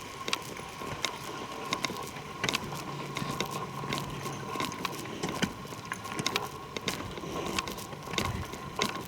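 Footsteps along a forest trail: irregular scuffs and clicks as a hiker walks, with no voices.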